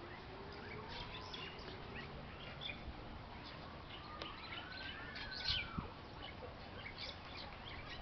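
A flock of small birds chirping: many short, high chirps scattered throughout.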